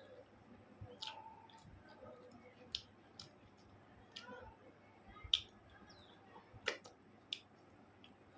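Close-miked eating sounds: soft chewing and scattered mouth clicks and lip smacks while eating rice with chicken curry. The sharpest clicks come about five and seven seconds in.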